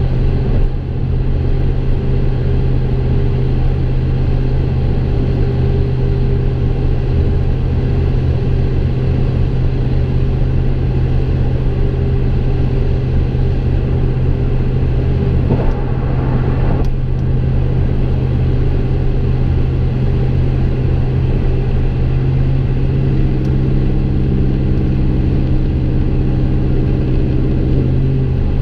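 2015 Chevy Silverado's 5.3-litre V8 heard from inside the cab while driving, its exhaust through long-tube headers and a Gibson MWA muffler with no resonator giving a steady low drone. There is a brief swell a little past halfway, and near the end a second, higher drone tone joins in.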